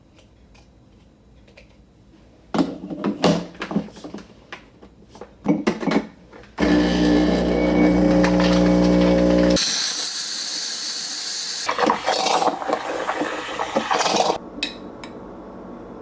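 Coffee making with an electric coffee machine: a few clicks and clatters of handling, then a loud steady pump buzz for about three seconds. That is followed by a high steam hiss for about five seconds, which drops to a softer steady sound near the end.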